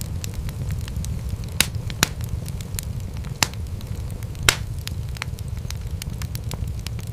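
Wood fire crackling in a fireplace: a steady low rumble of the flames under frequent small crackles, with four louder sharp pops in the first two-thirds.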